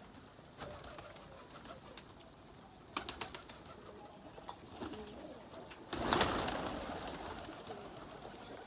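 Domestic pigeons cooing faintly, with small clicks and scuffles and a brief louder flutter of wings about six seconds in.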